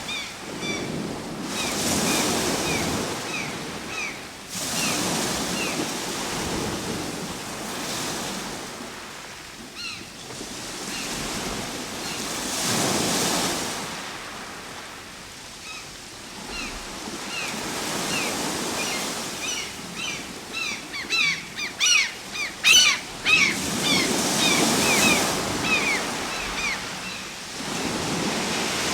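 Ocean waves breaking and washing in, swelling and fading every few seconds. Short high chirps run through it, thickening into a quick, loud flurry a little past two-thirds of the way through.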